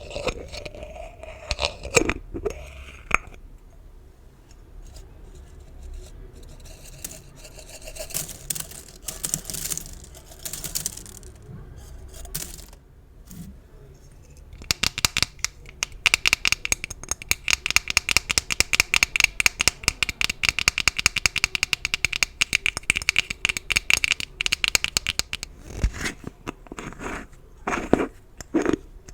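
Gift ribbon bows handled close to the microphone: irregular scraping and crinkling of the ribbon, then from about halfway a fast, even run of crisp clicks lasting about ten seconds, and scattered crinkles near the end.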